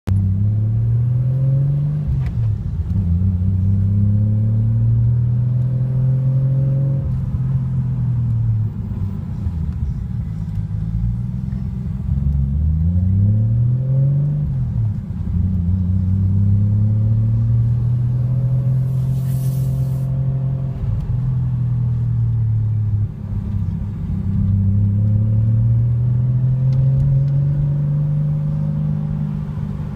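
Nissan Skyline R33 GTST's turbocharged straight-six heard from inside the cabin at light throttle. The engine note climbs and eases back several times, with short drops between climbs as it changes gear. A brief hiss comes about two-thirds of the way through.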